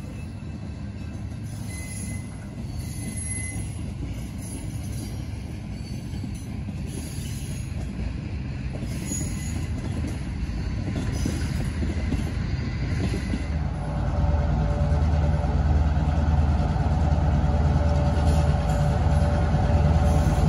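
Freight cars and cabooses rolling past, their wheels rumbling and clicking over the rails. About 14 seconds in, a diesel locomotive's engine takes over, running steadily with a deep drone and growing louder as it approaches.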